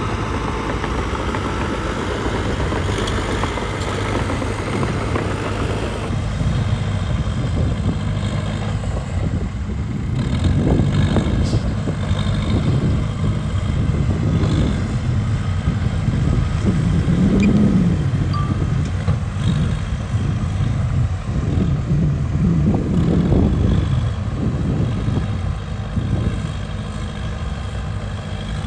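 Heavy diesel earthmoving machinery running and working, engine note swelling and easing at times. The character of the sound shifts about six seconds in.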